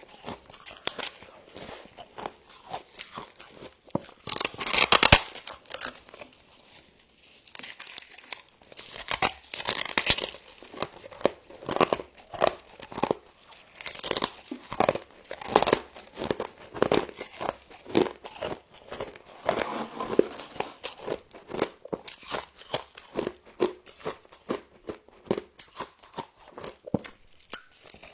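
Frost being crunched and chewed close to the microphone, in a string of irregular crisp crunches, with a few louder bites.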